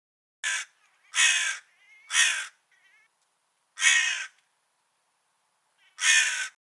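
Crow giving five harsh caws, spaced unevenly with a longer gap before the last.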